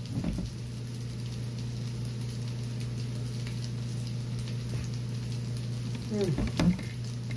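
Potato pancakes frying in oil in an aluminium skillet: a steady sizzle with small crackles, over a steady low hum.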